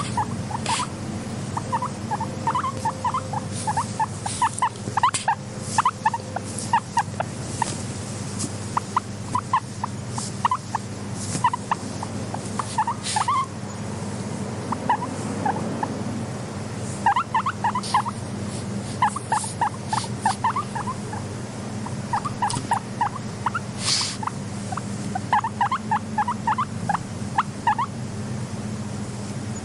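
Guinea pig calling in runs of short, quick notes, several a second, with brief pauses between the runs. A steady low hum runs underneath, with a few sharp clicks.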